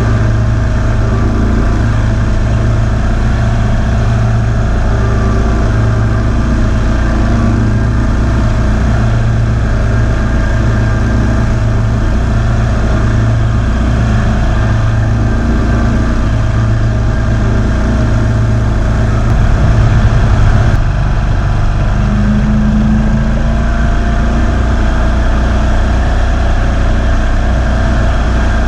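Kawasaki V-twin engine of a Ferris zero-turn mower running steadily while mowing, with a brief louder stretch about twenty seconds in.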